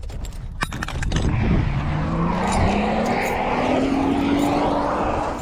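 A car accelerating hard, its engine note rising steadily for about three seconds under a loud rush of exhaust and road noise.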